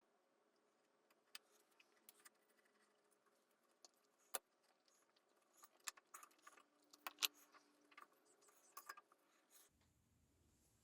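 Faint, scattered metallic clicks and clinks of hand tools and bolts as the cylinder head is unbolted and lifted off a Kymco Super Fever ZX 50cc scooter engine.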